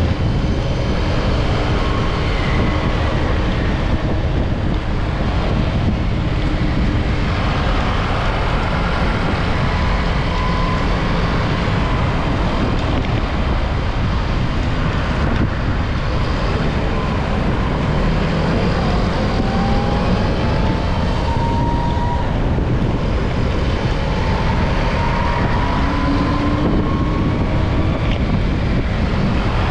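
Steady wind rushing over the microphone of a rider on the move, mixed with the sound of traffic. Faint rising engine whines come in around the middle and again later on.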